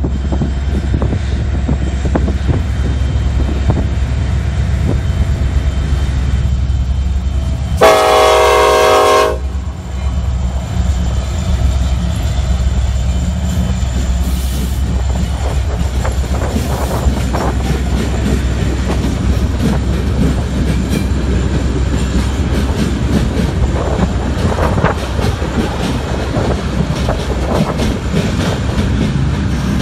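Union Pacific freight train with several diesel locomotives passing close by, engines running with a steady low rumble. A single horn blast of about a second and a half sounds some eight seconds in, then the freight cars roll past with their wheels clicking and rattling on the rails.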